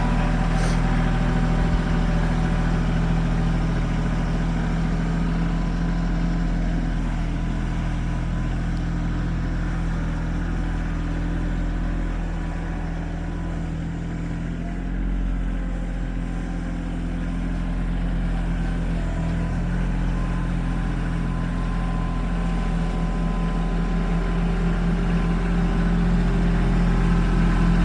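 Tractor engine running steadily while clearing snow, a little quieter about halfway through and growing louder again toward the end.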